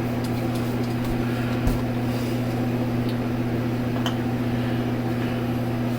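A steady low hum with two faint ticks, one about a second and a half in and one about four seconds in.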